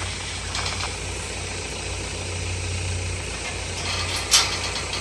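LDV G10 van driving slowly on a gravel road, a steady engine hum and road noise heard from inside the cab, with one sharp knock about four seconds in.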